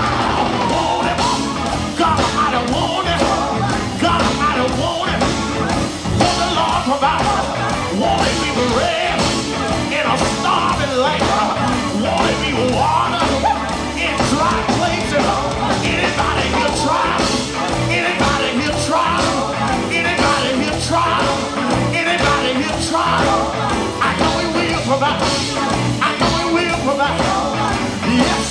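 Live gospel quartet band playing with electric guitar, bass and keyboard at a steady beat, with a singer's voice shouting and singing over it.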